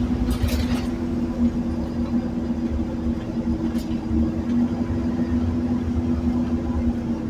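Scania Omnicity bus's five-cylinder diesel engine pulling at steady revs under way, a steady drone over low road rumble, heard from inside the bus. The drone cuts off suddenly at the very end as the engine note drops.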